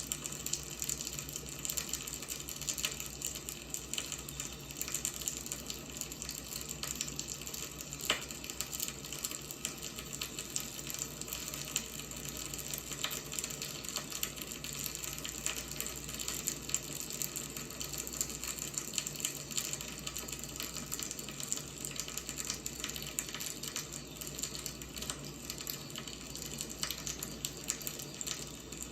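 Firewood burning: a steady hiss with continual small crackles, and a sharper pop about eight seconds in and another around fourteen seconds.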